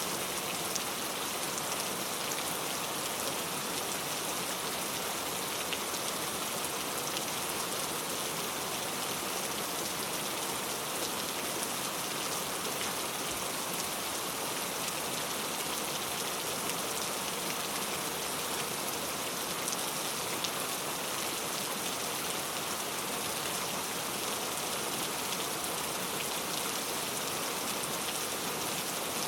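Very heavy rain falling steadily, an even hiss with countless small drop ticks and no let-up.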